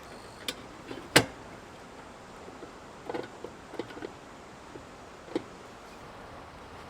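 A handful of sharp, irregular clicks and knocks over a steady faint hiss, the loudest a single knock about a second in and a quick cluster of small clicks around the middle.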